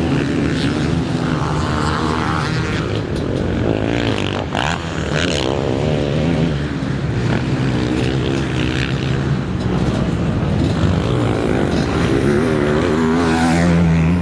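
Several motocross dirt bikes racing, their engines revving up and down as the riders work the throttle around the track.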